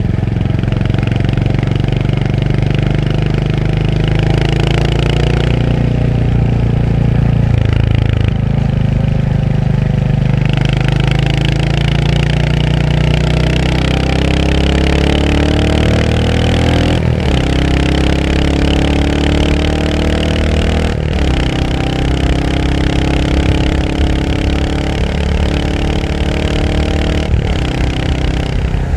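Royal Enfield Hunter 350's single-cylinder engine under way, its note climbing as the bike accelerates. The pitch drops sharply at two upshifts in the second half, and the engine then runs on at a steadier speed.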